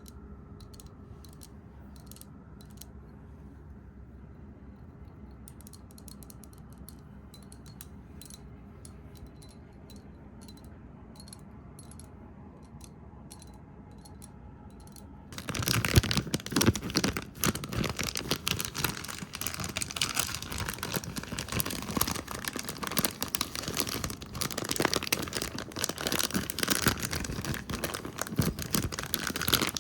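Close-microphone ASMR sounds: faint sparse ticks over a low hum, then about halfway through a sudden switch to fast, dense, loud tapping and scratching right at the microphone, a crackly rattle like rapid typing.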